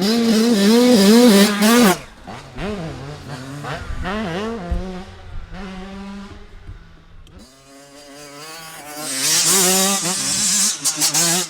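Motocross dirt bike engines revving up and down over and over, as on a track. The revving is loud at the start, drops back through the middle with single rising revs, and swells again near the end.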